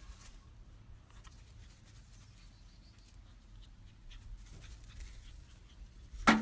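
A dog moving about, with faint scuffling and light taps, then one louder knock near the end.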